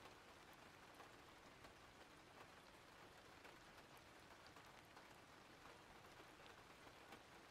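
Faint, steady rain ambience: an even hiss of rainfall with scattered small drop ticks.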